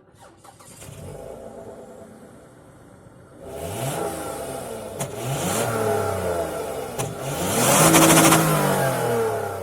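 Car engine revving repeatedly, its pitch rising and falling several times and growing louder partway through, with two sharp clicks.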